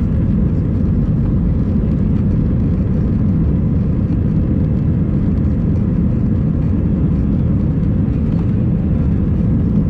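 Airbus A319 jet airliner heard from inside the cabin: a loud, steady rumble of engine and airflow noise, even throughout.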